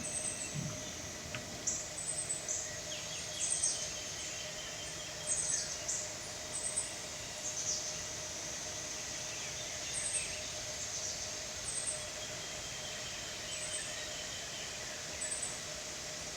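Small birds chirping outdoors: short, high chirps every second or so, over a steady high-pitched tone in the background.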